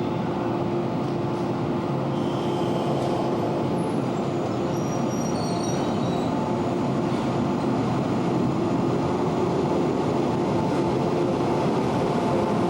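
Electric commuter train running with a steady rumble, with a few faint high-pitched tones for a few seconds near the start.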